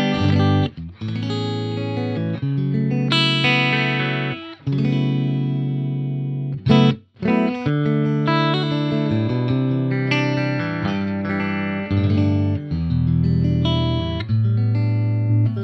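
Electric guitar played through a guitar amplifier: chords and notes rung out and held for a second or two each, with brief breaks about four and a half and seven seconds in.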